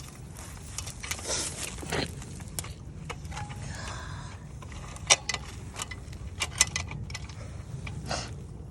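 Scattered metallic clicks and clinks of a dirt bike's drive chain being worked back onto the sprocket as the bike is rolled, over a steady low rumble. The chain had come off because it had gone slack.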